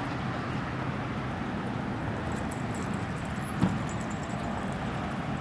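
Steady rumble of distant road traffic, with faint metallic jingling a couple of seconds in and a single soft thump a little past the middle.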